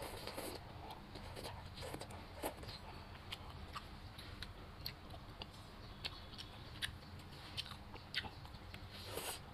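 A person chewing mouthfuls of soft leafy greens and vegetables from a soup, close to the microphone. The wet mouth sounds come with short, irregular clicks scattered throughout.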